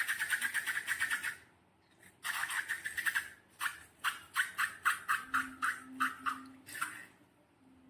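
Rapid rhythmic scraping or rubbing strokes, about eight to ten a second, in two runs. These give way about three and a half seconds in to slower single strokes about three a second.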